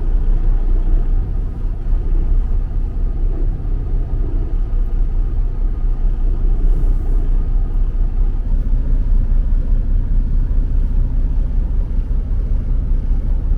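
Commercial truck's diesel engine running with a steady low rumble.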